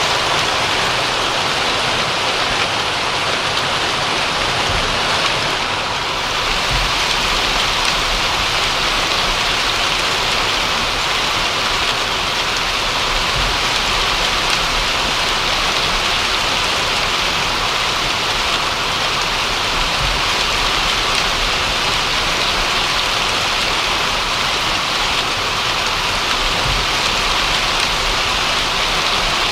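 Steady rain falling and pattering on a surface, an even hiss with scattered low thuds of heavier drops.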